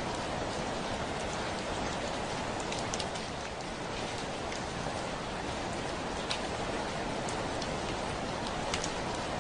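Heavy rain falling steadily on a window, an even hiss with sharper individual drop ticks now and then.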